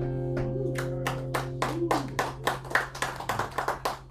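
The last guitar chord of a song rings out and fades, while a small audience claps, the claps starting within the first second and thinning out toward the end.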